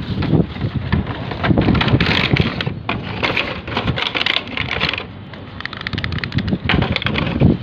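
Packaging of a toy RC helicopter being handled and opened: plastic and cardboard rustling and crinkling, with many sharp clicks and knocks.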